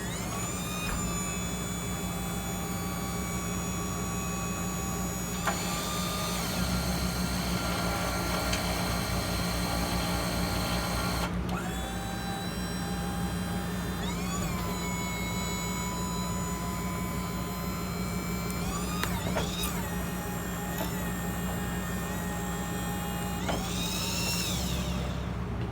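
A 3,200-pound service-truck crane being run by wireless remote: its motors whine through about six separate moves, each starting with a whine that rises in pitch and then holds steady, over a steady low hum.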